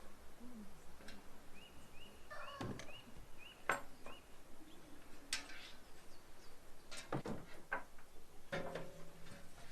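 Farmyard fowl calling: a quick run of short, repeated high calls, then a lower call, mixed with several sharp knocks.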